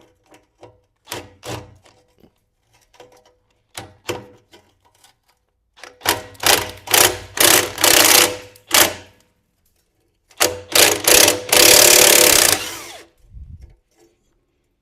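Impact wrench hammering in short bursts on car fasteners, then one longer run of about two seconds near the end.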